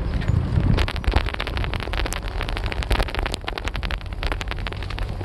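Wind rumbling on the microphone, with a dense, irregular crackle of sharp clicks that starts about a second in and keeps on.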